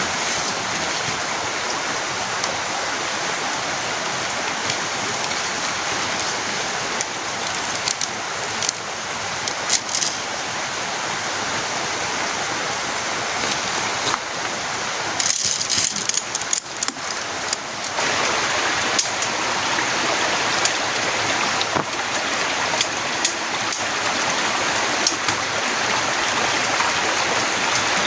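Heavy rain pouring down steadily, with scattered sharp drip taps. About halfway through, for a few seconds, the sound thins and turns hissier before the full downpour returns.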